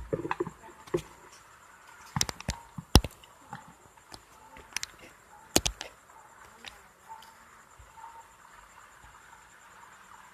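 Scattered sharp clicks and knocks of the metal and plastic parts of a clothes iron being handled during repair, the loudest a few clicks between about two and six seconds in.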